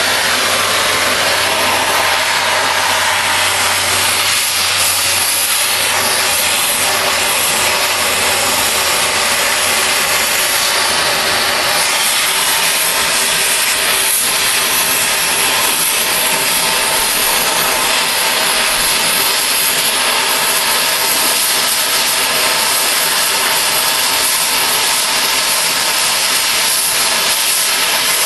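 Oxy-fuel cutting torch flame cutting through steel railroad rail, giving a loud, steady hiss.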